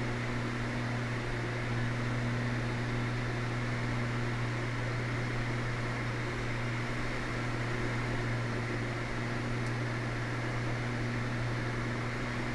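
Cabin drone of a Cessna 320's twin piston engines in flight, a steady low hum with fainter higher tones that holds unchanged throughout.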